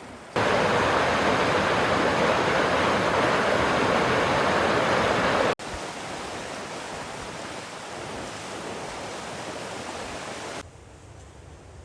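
Rushing water, a steady even noise that cuts in suddenly, falls to a quieter level halfway through and drops again near the end as the shots change.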